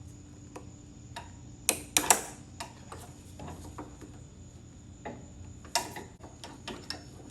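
Irregular clicks and knocks of hands and tools working parts loose on a riding mower with the engine off, the sharpest a quick double clack about two seconds in and another just before six seconds.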